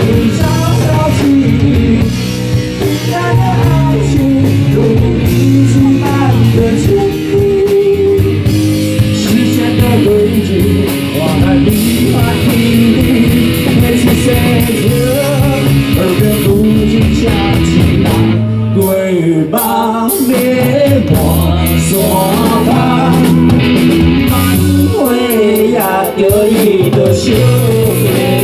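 Live rock band playing loudly, electric guitar prominent over bass and drums, with a sung melody line.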